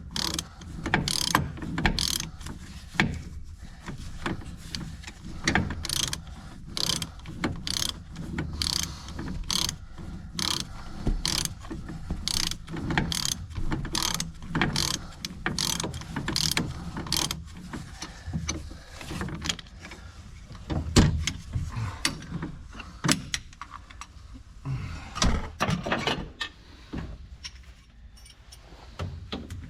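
Hand ratchet wrench clicking in steady strokes, about one and a half a second, as a bolt is turned on a tractor transmission; in the last third the strokes become irregular, with a few metallic knocks.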